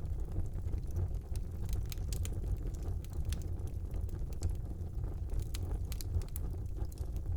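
Wood fire burning in a fireplace: a steady low rumble of the flames with frequent small sharp crackles and pops, several a second at irregular intervals.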